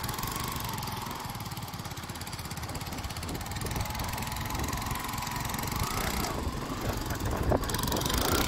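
Yamaha FZ motorcycle engine revving while its rear wheel spins in loose beach sand, the bike bogged down; the revs climb about five seconds in.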